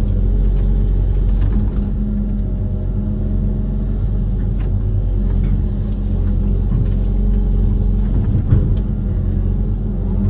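Diesel engine of a Kobelco SK130 amphibious excavator running steadily at work, with a few faint knocks.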